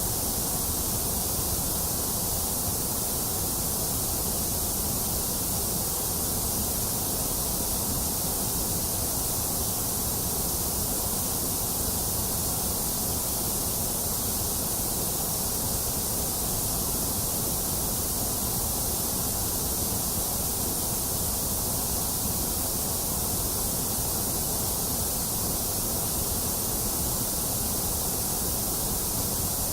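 Continuous generated white noise: an even, unchanging hiss, brightest in the high treble and thinner in the upper middle range.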